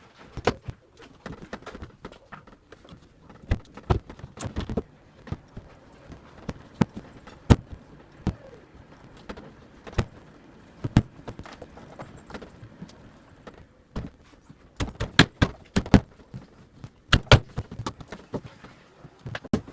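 A run of irregular sharp knocks and clicks, bunched more closely together near the end.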